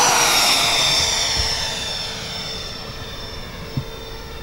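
Twin 70 mm twelve-blade electric ducted fans of a radio-controlled Boeing 737 airliner model whining past on a low pass. The whine drops in pitch and fades as the model flies away.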